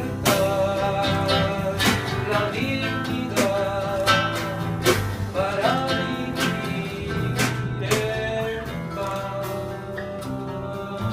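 A live band playing an instrumental passage: strummed acoustic guitar in a steady rhythm, with a held, wavering melody line over a low bass.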